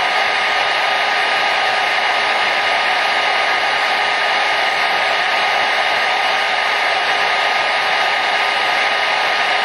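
Hair dryer running steadily: a constant even rush of air and motor noise, with a faint steady whine, that doesn't change.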